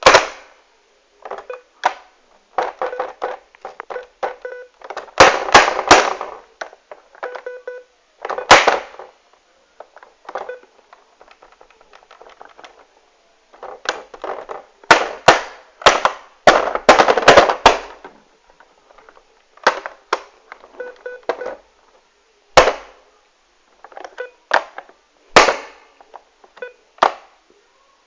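Repeated sharp bangs and knocks in irregular clusters, some in quick runs, each with a short ringing tail.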